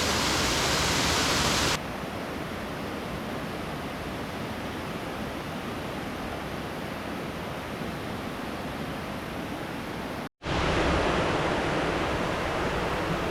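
Steady rush of flowing river water, which drops abruptly in level about two seconds in, cuts out for an instant near ten seconds, then comes back louder.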